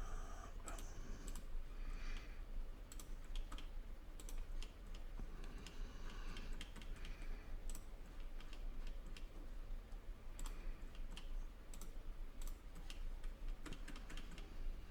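Computer mouse and keyboard clicks, irregular and scattered, over a steady low electrical hum.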